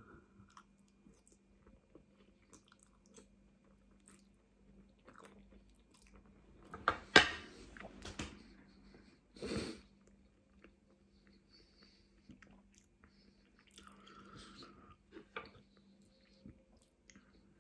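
Quiet close-up chewing of a mouthful of spaghetti bolognese, with faint scattered mouth clicks and two short, louder noisy sounds about seven and nine and a half seconds in.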